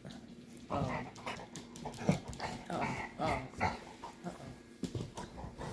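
A dog vocalizing in a rapid string of short, pitched sounds that begins about a second in and thins out toward the end, its protest at being rubbed.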